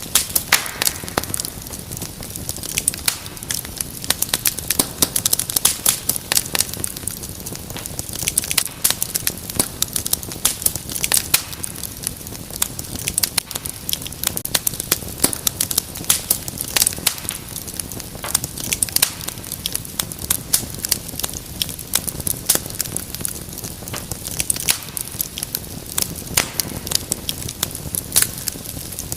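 Wood fire crackling steadily, with many irregular sharp pops and snaps over a low, steady hiss of flames.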